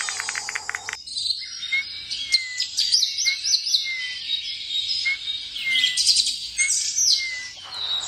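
Birds chirping and whistling: quick runs of high chirps over a repeated slurred whistle, starting about a second in and stopping shortly before the end.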